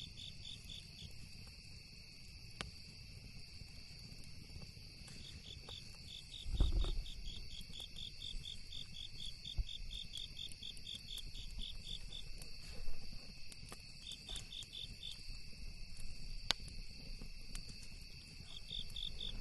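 Insects chirping in a steady, rapid high pulse over a continuous high trill, with a few sharp pops from the campfire and a low thump about six and a half seconds in.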